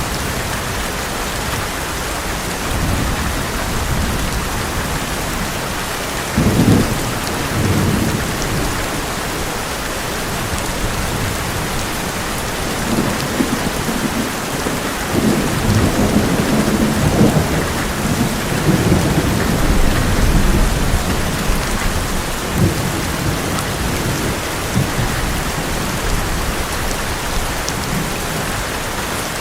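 Heavy rain falling steadily on an old metal roof, with thunder rumbling: a short rumble about seven seconds in, and a longer, heavier roll through the middle.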